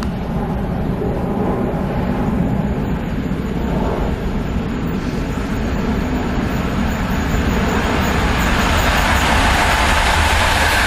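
Intercity passenger train hauled by an EP09 electric locomotive approaching on the track, its rolling noise growing louder through the second half, with heavy wind rumble on the microphone.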